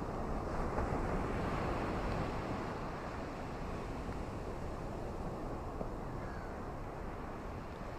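Ocean surf washing on a beach with wind, a steady rushing wash that swells slightly about a second in and then holds level.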